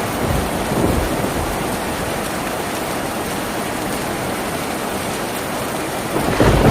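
Steady heavy rain on a tin roof, an even hiss of drops. A low rumble of thunder swells up near the end.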